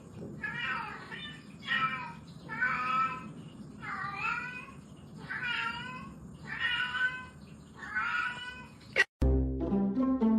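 A cat meowing over and over, about one call a second. About nine seconds in, the meowing cuts off and plucked string music starts.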